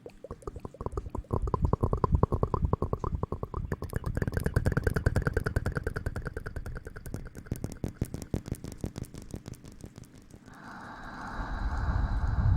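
Fast, rhythmic rubbing and scrubbing close to the microphone, many short strokes a second, in the manner of hair being washed. The strokes stop about nine seconds in, and a steady hiss follows, with a low rumble building near the end.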